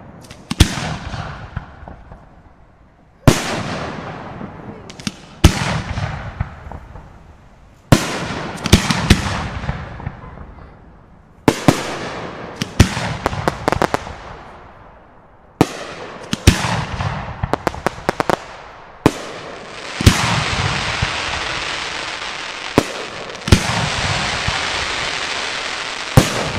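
Aerial firework shells bursting, a loud bang every few seconds, each followed by a fading rumble, with quick volleys of smaller reports in between. Over the last several seconds a dense, steady crackle fills the gaps between bangs.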